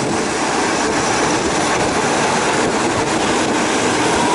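Train running along the track, heard from aboard: a steady, loud noise of wheels on rails and a moving carriage.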